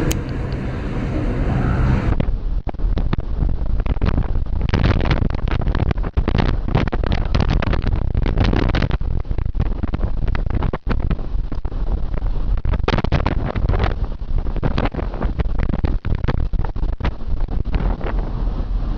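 Strong wind buffeting and crackling on the microphone, with the deep rumble of a ship at sea in a storm. The sound changes abruptly about two seconds in.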